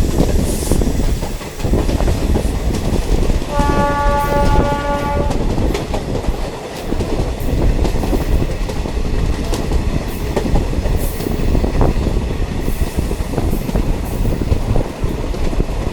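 Indian Railways diesel multiple unit (DMU) train running along the track, a steady rumble with rail clatter. About three and a half seconds in, its horn sounds once for just under two seconds.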